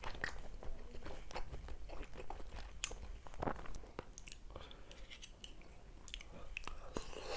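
A person chewing and biting food close to the microphone, with irregular crisp clicks and crunches.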